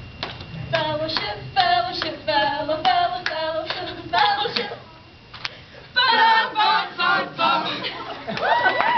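A group of voices singing a cheer in unison, syllable by syllable, with hand claps. Near the end, rising and falling whoops break out.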